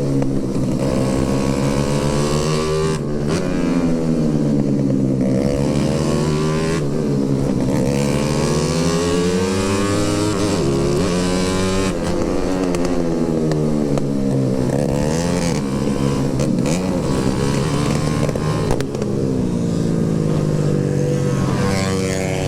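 Motorcycle engine running under way, its revs climbing and falling several times, with a sudden drop in pitch about three seconds in.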